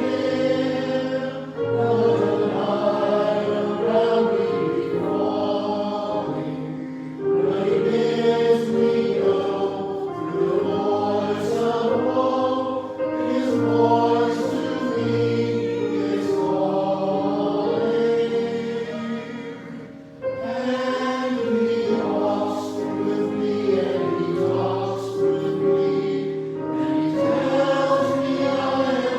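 A choir singing a hymn in sustained, multi-voice phrases, with a brief pause between phrases about twenty seconds in.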